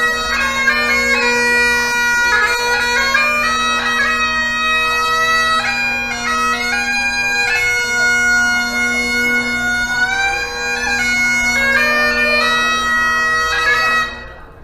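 Bagpipes playing a tune over a steady drone; the playing dies away near the end.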